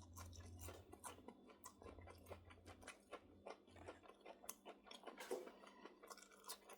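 Faint close chewing of a fried onion ring, a run of soft crunches and mouth clicks.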